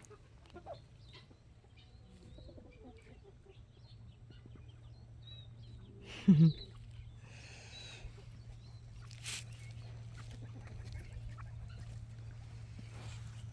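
Quails chirping and clucking softly in short scattered calls, with one short loud low-pitched sound about six seconds in. A low steady hum comes in after about five seconds.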